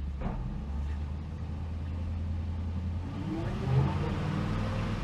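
1965 Ford Thunderbird's 390 V8 running steadily in gear, then revving up about three seconds in as the car is brought back up to speed.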